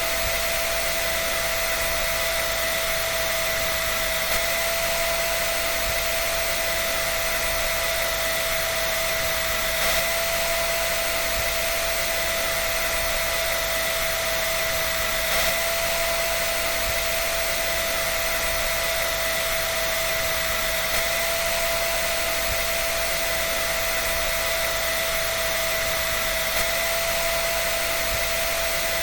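An electric dryer running steadily: a constant rushing fan noise with an unchanging whine, with no rhythm or pause.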